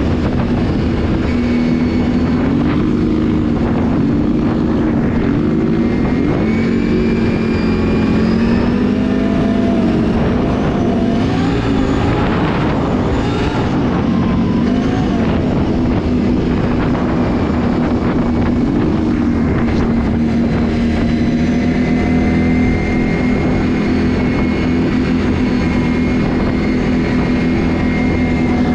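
Can-Am ATV engine running under way, its pitch rising and dipping again and again with the throttle in the first half, then holding steadier for the rest.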